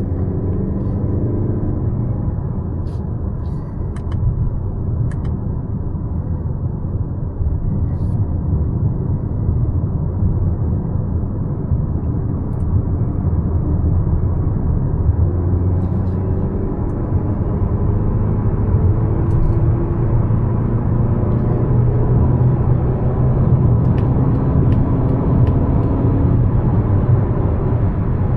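Driving noise of a 2025 Mazda CX-5 with a naturally aspirated 2.5-litre e-Skyactiv G four-cylinder: a steady low rumble of engine and road, building a little louder toward the end as the car picks up speed.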